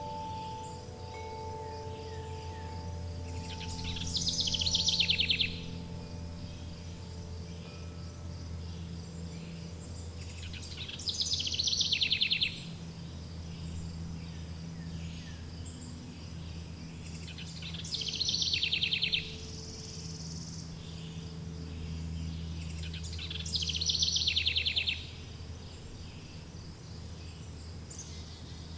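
A songbird repeating a fast trilled phrase four times, about every six to seven seconds, over a steady high insect chirr. Wind chimes ring softly near the start and again past the middle, under a steady low hum.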